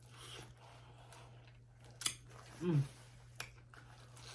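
Close-miked eating of mango: a few sharp, wet mouth clicks while chewing, and a short hummed "mm" between them, over a low steady hum.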